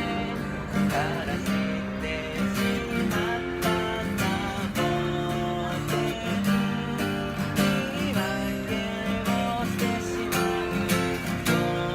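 Acoustic guitar strummed in a steady rhythm, playing the chords of a song.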